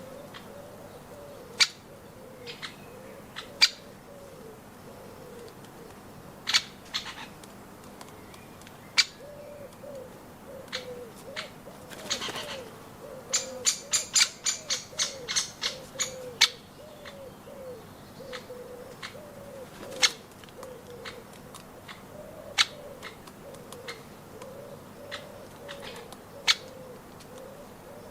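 Garden birds: a low, repeated cooing call runs throughout, with sharp ticks every second or two and a quick run of about a dozen sharp high notes midway.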